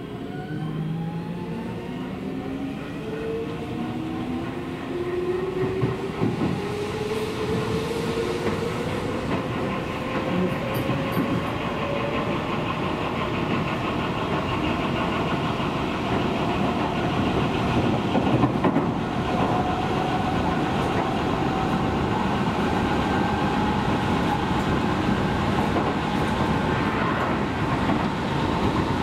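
Seibu Railway electric train running and picking up speed, with several tones rising steadily in pitch over the running noise of the wheels on the rails.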